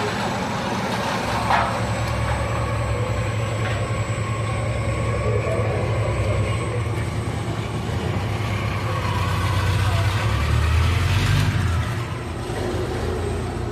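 Mazda 3500 truck engine running with a steady low rumble, swelling louder for a couple of seconds about ten seconds in, then settling back. Its head gasket has blown.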